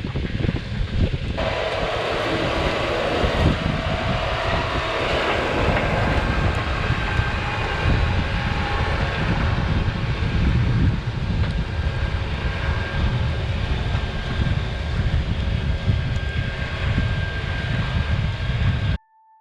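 Kubota M8 tractor running steadily under load while pulling a disk through a grass field. The sound cuts off suddenly near the end.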